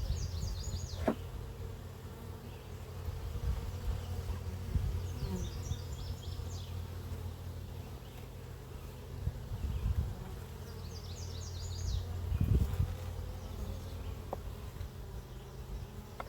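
Honey bees humming steadily around an open hive brood box, with a few light knocks of the frames being handled. Short high chirping phrases come three times over the hum.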